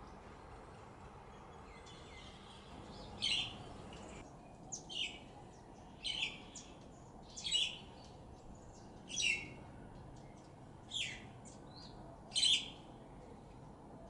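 A songbird giving a series of short, sharp high calls, roughly one every second and a half, starting about three seconds in, over a faint outdoor background.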